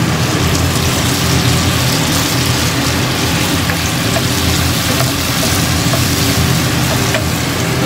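Fried tofu and green onions sizzling in a frying pan as they are stirred with a wooden spoon, over a steady low hum.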